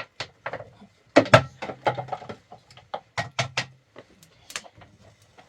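A run of irregular sharp knocks and clatters, as of objects being handled and set down, with a faint low hum underneath.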